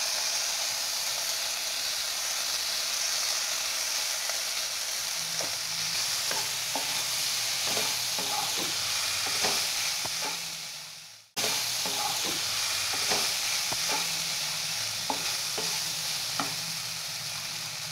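Onions and capsicum sizzling in hot oil in a steel kadhai, stirred with a wooden spatula that scrapes and knocks against the pan several times a second from about five seconds in. The sound fades out and cuts back in suddenly about eleven seconds in.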